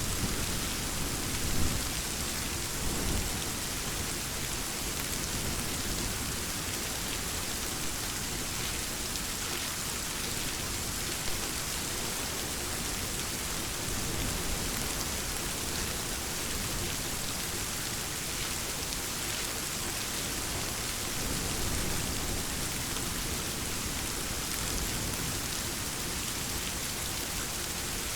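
Steady, heavy rain falling, with a low rumble of distant thunder underneath. A single sharp knock stands out about a second and a half in.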